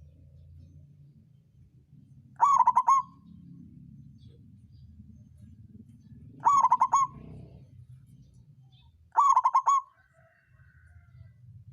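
Zebra dove (perkutut) cooing: three short rolling coo phrases, each about half a second, spaced three to four seconds apart.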